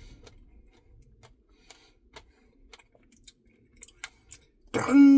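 Faint, scattered small clicks and mouth sounds of a man eating, then near the end a loud vocal sound from him, held briefly and then falling in pitch.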